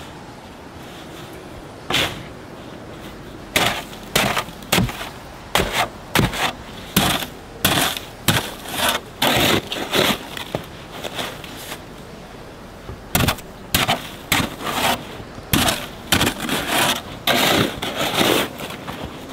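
Snow shovel digging into and scooping deep snow: quick, irregular runs of short strokes, with a pause of about two seconds a little past the middle.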